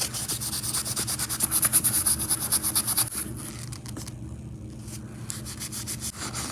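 Rust being rubbed off the small metal parts of an HO scale freight car kit, in fast back-and-forth scrubbing strokes that are strongest for the first three seconds and then go on more lightly.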